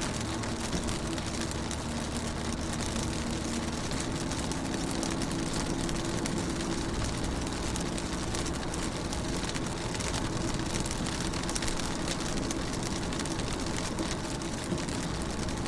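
Rain pattering on a car's window in dense, tiny drops, under a steady low engine hum.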